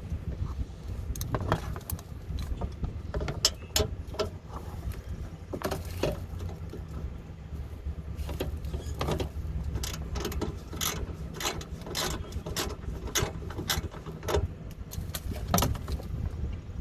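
Hand ratchet wrench clicking in short runs of several clicks a second, working on the bolts of a car's plastic underbody cover, over a steady low rumble.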